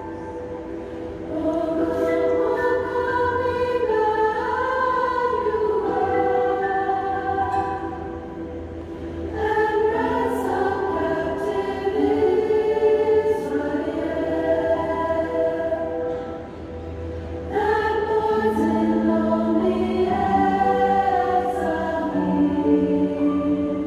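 Choir singing in long, sustained phrases, with short breaks between them.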